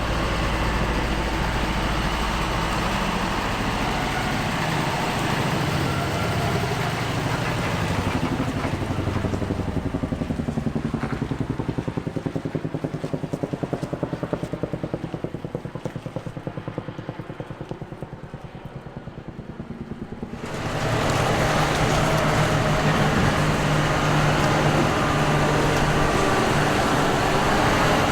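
New Holland CX 8.70 combine harvester running while cutting wheat: a steady machine drone. About two-thirds of the way through the sound changes abruptly to a louder, fuller drone with a steady low hum.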